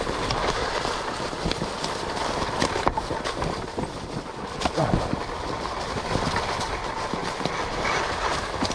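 Electric dirt bike ridden along a rough woodland trail: a steady rush of tyre and wind noise, nearly free of motor sound, with scattered knocks and clicks as it runs over the uneven ground.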